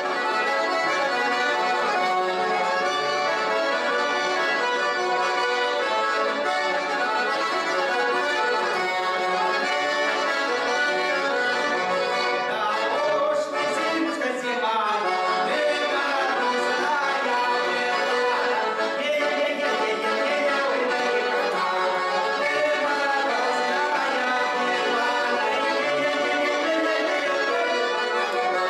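Russian garmon (button accordion) playing an instrumental passage, chords and melody sounding without a break, with a quick run of notes about halfway through.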